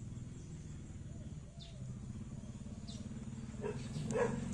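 Birds in the background: a few faint chirps, then a louder short bird call twice near the end, over a steady low hum.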